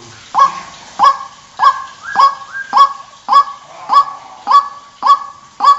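White-breasted waterhen (ruak-ruak) call used as a trapping lure: loud, honking 'kwak' notes repeated in a steady rhythm of about two a second.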